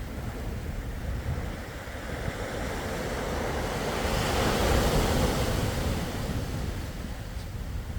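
Sea waves breaking and washing ashore, one wave swelling up and peaking about halfway through before subsiding, over a steady low rumble of surf and wind on the microphone.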